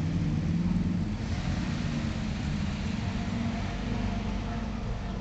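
Engines of cars driving past in a line, an old military jeep's engine closest and loudest in the first second, then a pickup truck's engine as it comes by.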